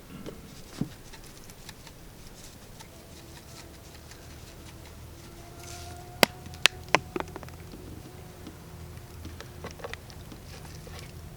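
Scattered light taps and clicks of things being handled, with three sharp clicks in quick succession about six seconds in, over a faint low hum.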